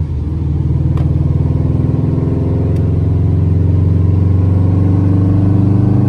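Subaru WRX's freshly swapped-in JDM flat-four engine running at a steady speed, with an even low rumble.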